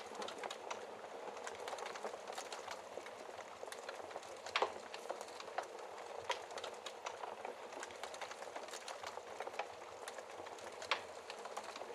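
Wood fire burning in a fireplace: a steady hiss and rustle of flames with irregular crackles and sharp pops of burning logs, the loudest pops about four and a half seconds in and near the end.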